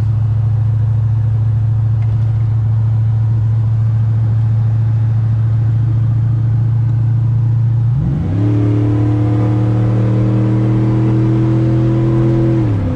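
A Chevy 1500 pickup's engine running at a steady drone, then revved up quickly about eight seconds in, held at high revs for about four seconds, and dropping back near the end.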